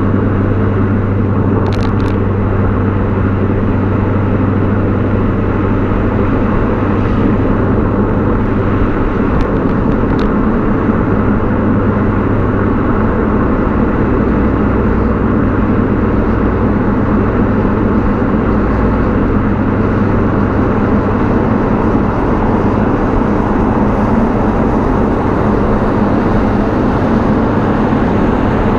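BMW E39 540i's 4.4-litre V8 exhaust droning steadily at an even cruising speed, with road and wind noise.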